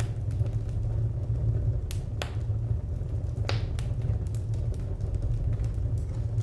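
Wood fire crackling: scattered sharp snaps and pops over a steady low rumble, with a few louder pops about two and three and a half seconds in.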